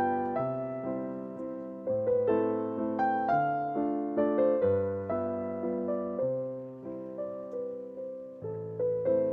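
Background piano music: a gentle melody of single notes over low sustained chords, each note striking and fading.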